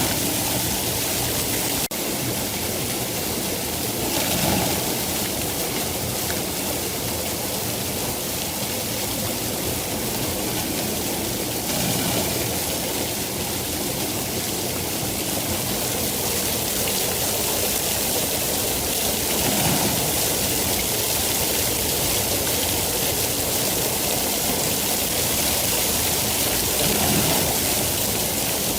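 Steady rain: an even rushing hiss with soft swells about every seven or eight seconds.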